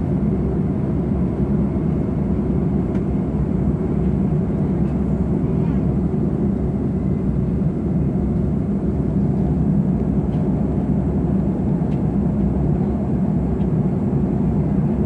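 Steady, low cabin noise of an Airbus A330 in cruise flight: engine and airflow sound heard from inside the aircraft.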